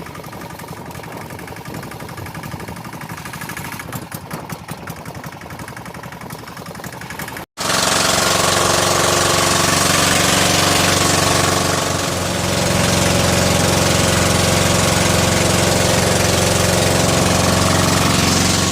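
An engine running with a rapid knocking beat; after a cut about seven seconds in, a louder engine running steadily.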